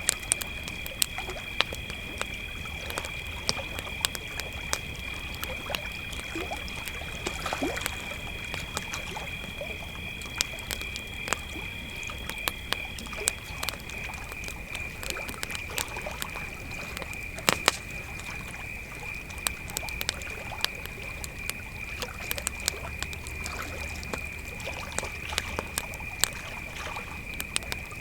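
Crickets trilling steadily over a crackling campfire, with many sharp pops and snaps. A second, higher-pitched cricket falls silent about halfway through.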